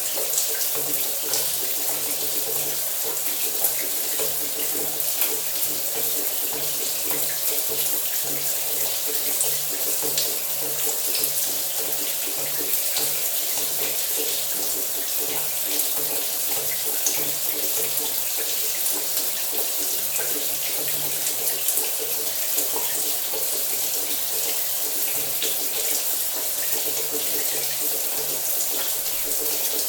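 Shower water running steadily, spray hissing and pattering onto a hard surface.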